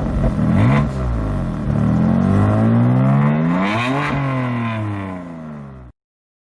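BMW M4's twin-turbo inline-six revved through an Akrapovic Evolution Line exhaust: the engine note falls briefly, then climbs steadily to a peak about four seconds in and falls back as the revs drop. The sound cuts off suddenly near the end.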